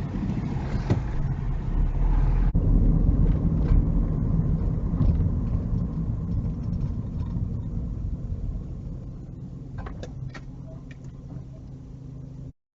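Car engine and road noise heard from inside the cabin as the car drives, a steady low rumble that breaks abruptly about 2.5 s in and fades near the end before cutting off.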